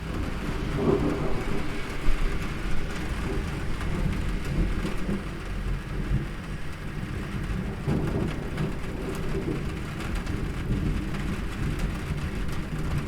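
Steady rain falling, with a low rolling rumble of thunder that swells about a second in and again near eight seconds.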